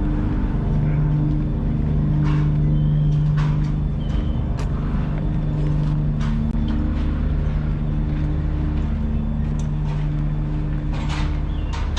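Diesel engine of an HGV lorry running steadily, heard from inside the cab as a low, even drone, with scattered short clicks and knocks.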